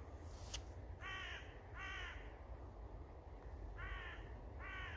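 Crow cawing as it flies over: four caws in two pairs, one pair about a second in and the other near the end.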